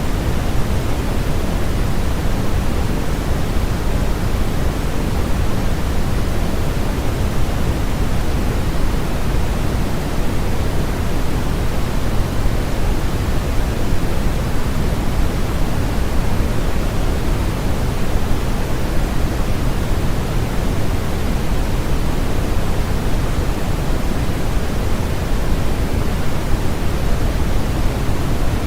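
Steady synthetic sleep noise: an even, unbroken rushing hiss, heavier in the bass than in the treble, with no change or events.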